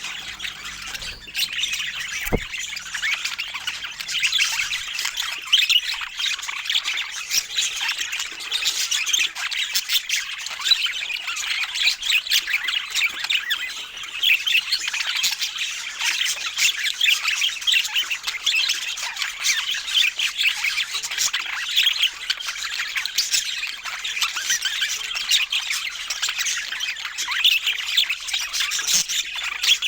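Pet budgerigars chattering continuously, a dense stream of rapid overlapping chirps, warbles and squawks from several birds at once.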